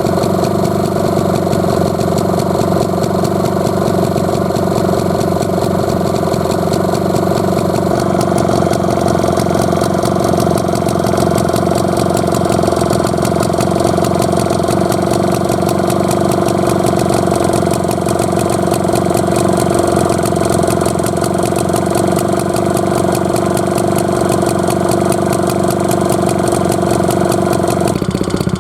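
Tohatsu T56D air-cooled stationary engine running steadily at a constant speed, with an even firing beat. Its tone shifts just before the end.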